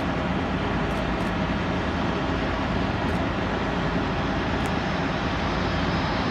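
Steady rushing noise of a Boeing 737 MAX 8 airliner's jet engines running, with a faint high whine coming in near the end.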